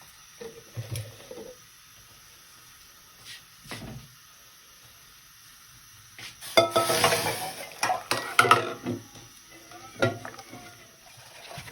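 Kitchen dishes, pots and utensils being handled: a few light clicks, then a loud stretch of clattering and clinking with ringing knocks past the middle.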